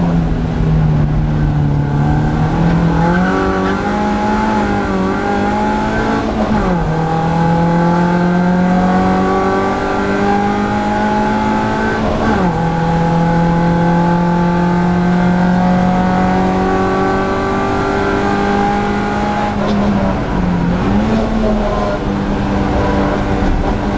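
BMW E36 Compact Cup race car's engine heard from inside its stripped, caged cabin, driven hard on track. The pitch climbs steadily through each gear and drops sharply at upshifts about 7 and 12 seconds in, with a brief dip near 20 seconds.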